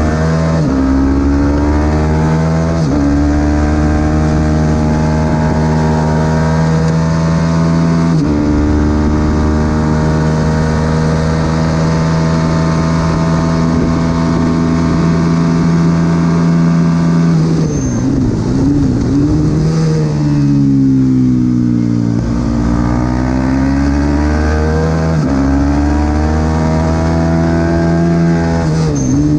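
Supersport 300 racing motorcycle engine at full throttle, heard onboard: it changes up a gear a few times early on, holds steady at high revs for a long stretch, drops and wavers while shifting down under braking past halfway, then revs up through the gears again.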